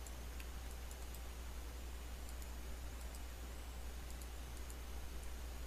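Computer mouse clicking irregularly, small sharp clicks a few per second in clusters, over a steady low electrical hum and hiss from the microphone.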